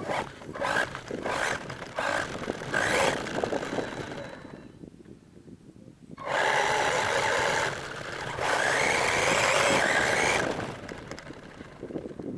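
R/C monster truck driving in spurts: its motor and tyres come and go in short bursts with knocks and bumps for the first few seconds. After a brief lull it runs hard twice, and the motor's whine rises in pitch during the second run before dying away.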